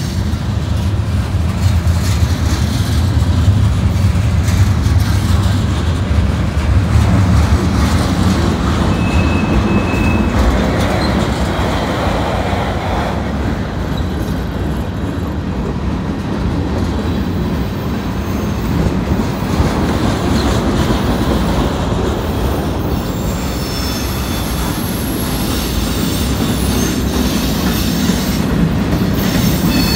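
Freight cars (gondolas, covered hoppers and tank cars) rolling past close by: a steady rumble and clatter of steel wheels on the rails, with faint high wheel squeal now and then, most of it near the end.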